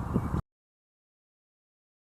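Low rumbling noise, like wind on an outdoor microphone, that cuts off abruptly less than half a second in, followed by complete digital silence.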